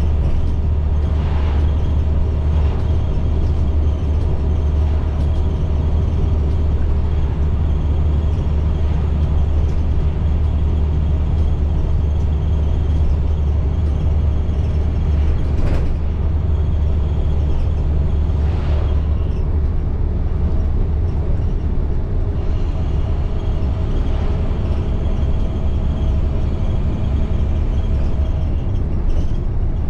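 2010 IC CE300 school bus under way, heard from inside: the MaxxForce DT inline-six diesel and drivetrain give a steady low drone with a few faint whining tones, and there are a few brief rattles or knocks.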